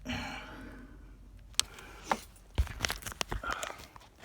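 Sharp irregular clicks, knocks and scrapes of hands pulling the capacitor and its wire connectors out of a boat air conditioning unit.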